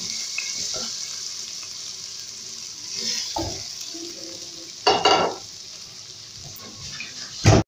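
Marinated elephant foot yam strips sizzling in hot oil in a non-stick pan, a steady high hiss. A few louder clatters of utensils against the pan, around three and five seconds in and loudest just before the end.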